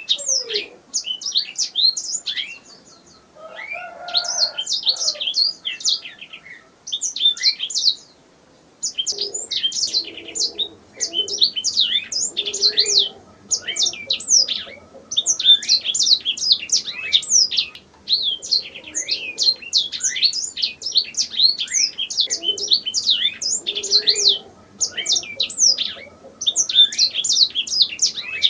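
Domestic canary singing: fast, high trills of rapid down-sweeping notes delivered in long phrases, separated by brief pauses, the longest gap about eight seconds in.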